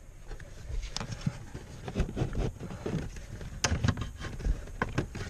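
Irregular clicks and knocks of plastic car interior trim being handled and fitted into place.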